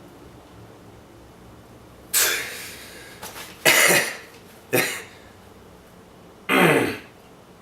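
Coughing: four separate coughs spread over about five seconds, the first about two seconds in and the last near the end.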